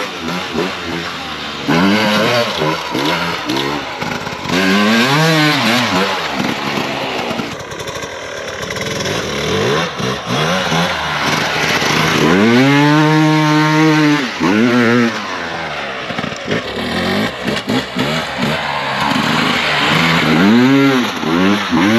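Motocross dirt bike engine revving up and down repeatedly while being ridden, with one longer rev held for about two seconds midway, over steady wind and tyre noise.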